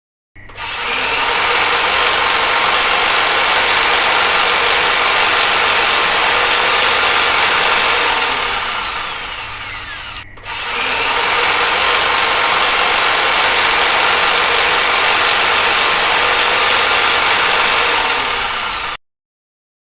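Electric drill running at speed in two long runs: the first winds down with a falling pitch about halfway through, then the drill starts up again and runs until it cuts off near the end.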